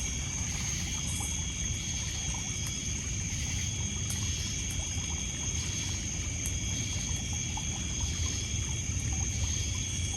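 Night lakeside ambience: steady high insect trills from crickets, with small waves lapping and trickling on a pebble beach underneath. A few faint crackles from the bonfire.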